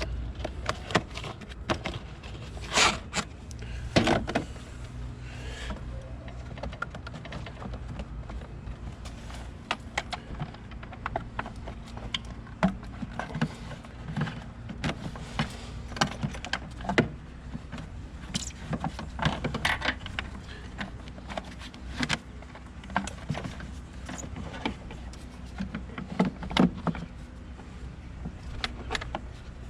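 Scattered clicks, taps and light rattles of hands handling parts at irregular intervals, over a steady low hum.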